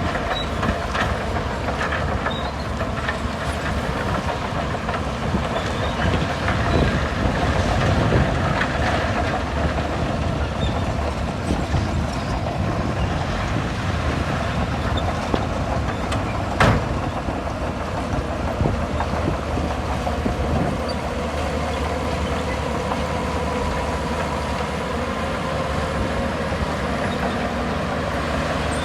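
Crawler bulldozer working, its diesel engine running steadily under a constant clatter of steel tracks, with one sharp knock a little past halfway.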